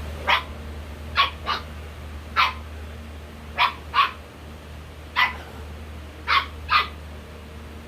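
A dog barking: nine short, sharp barks, some single and some in quick pairs.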